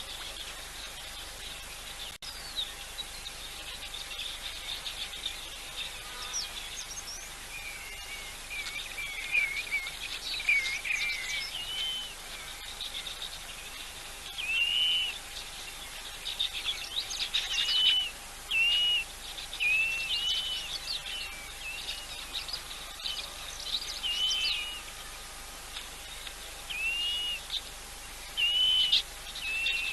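Wild birds calling in a busy chorus of short, arching chirps repeated in quick runs, thickening after the first several seconds, over a steady outdoor background with a faint constant hum.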